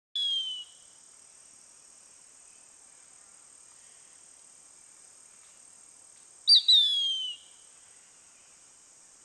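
A bird gives two short whistled calls, each sliding down in pitch, one at the start and a louder one about six and a half seconds in, over a steady high-pitched insect drone.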